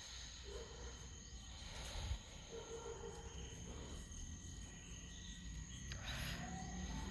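Faint steady high insect trill, with a low rumble underneath and a soft knock about two seconds in.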